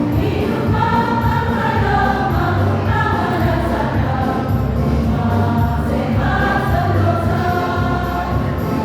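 Choir singing a song together in several voice parts over a backing accompaniment.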